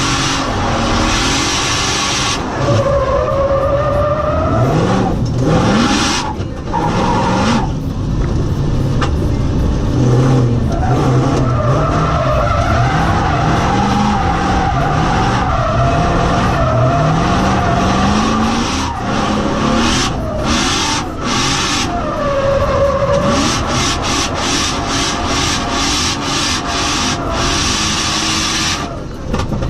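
BMW 4.4-litre V8 drift car revving up and down repeatedly as it slides, with tyres squealing through the drifts.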